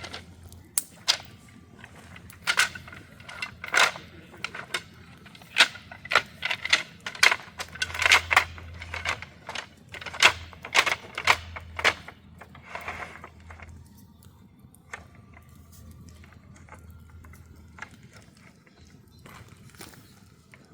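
A run of sharp, irregular knocks and clicks, dense and loud for the first twelve seconds or so, then sparse and faint.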